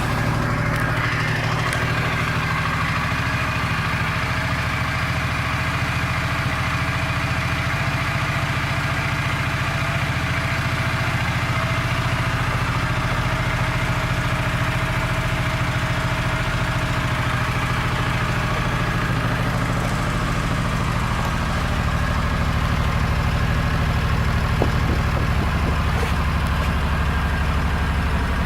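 2008 Suzuki Boulevard C50's V-twin engine idling steadily just after being started, its note shifting slightly about three quarters of the way through.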